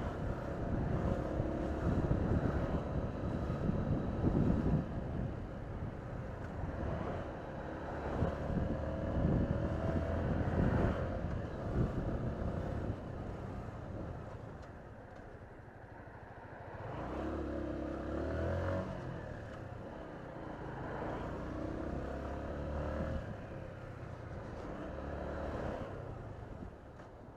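Honda CG125's single-cylinder four-stroke engine running as the motorcycle is ridden, its revs rising and falling, with a louder burst of revs about two-thirds of the way through.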